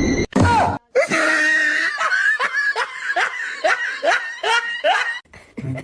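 Person laughing hard in a quick run of short, falling "ha" bursts, about two or three a second, that stops about five seconds in.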